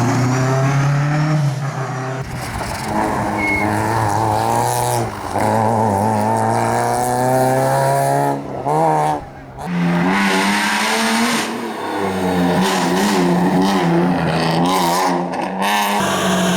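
Historic rally car engine revving hard at full throttle, the pitch climbing and then dropping sharply at each gear change or lift, several times over.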